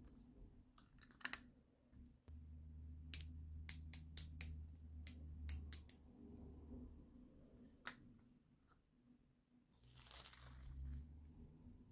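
Small plastic toy pieces handled during an unboxing: a run of sharp clicks and taps, then a brief rustle of packaging near the end.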